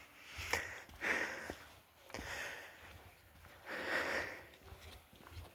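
A person breathing audibly, three or four soft breaths or sniffs about a second and a half apart, with a couple of faint clicks.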